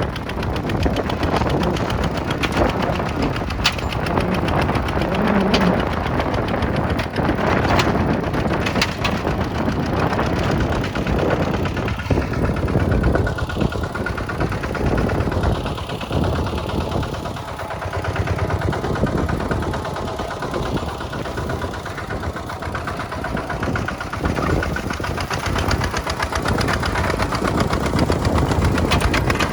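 Kubota tractor's diesel engine running steadily, with a rapid, even beat of firing pulses.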